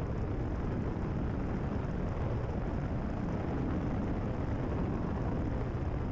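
Steady drone of a Cessna 172RG's four-cylinder engine and propeller, with rushing airflow, heard inside the cabin in a power-reduced descent at high cruise speed.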